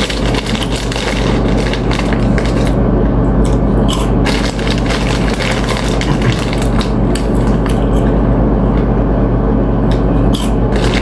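Close-miked chewing and crunching of chips with ceviche, a continuous run of crackly crunches over a steady low hum.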